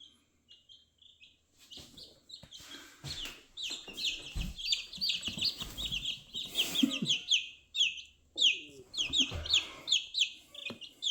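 A group of baby chicks peeping: a few scattered high chirps at first, then from a few seconds in a fast, steady stream of short, high, falling peeps, with a few soft knocks and rustles of handling.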